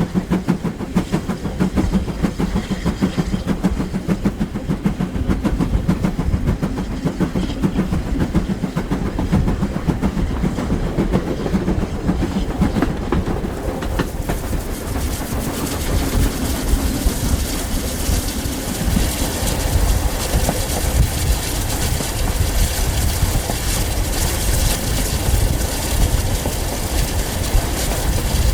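Steam-hauled train running on the line, its wheels clattering over the rail joints. The rumble and hiss grow fuller about halfway through.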